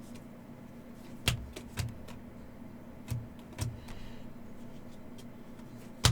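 Trading cards being handled and set down on a table, sharp taps coming in pairs about half a second apart, over a steady low hum.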